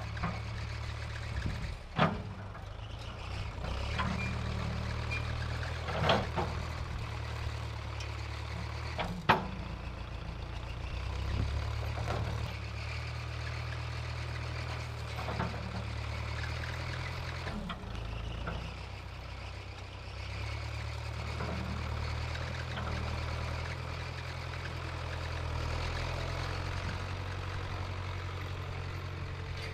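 1968 Case backhoe's engine running steadily, its speed shifting a little a few times, with several sharp clanks of the loader or logs, the loudest about nine seconds in.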